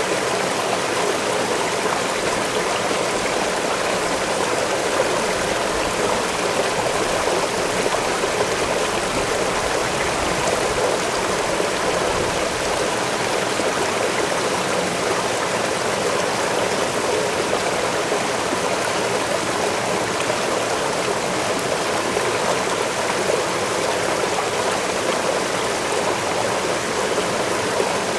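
A forest waterfall falling and splashing in a steady rush of water.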